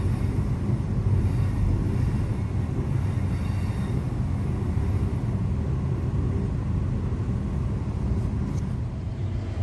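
Electric suburban train running, a steady low rumble with no breaks.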